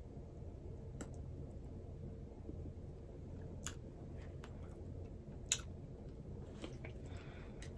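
Faint chewing of a Smarties chocolate button, with a few scattered soft clicks over a low steady room hum.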